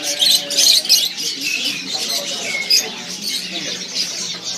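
Many caged songbirds chirping and calling at once, a dense, continuous chatter of high overlapping chirps and short whistles.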